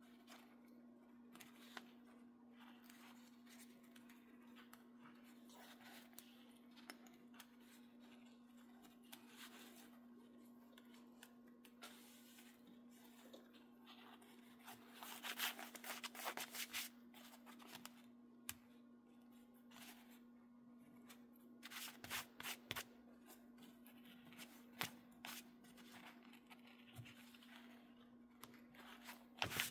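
Quiet room with a steady low hum. Twice, about halfway through and again later on, come short clusters of rustling and scraping from hands handling material.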